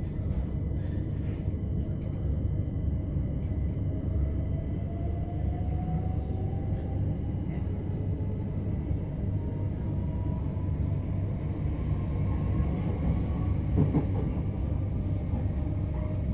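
Electric multiple-unit train running, heard from inside the carriage: a steady low rumble of wheels on rail, with a faint electric motor whine rising slowly in pitch as the train gathers speed. A brief knock comes about fourteen seconds in.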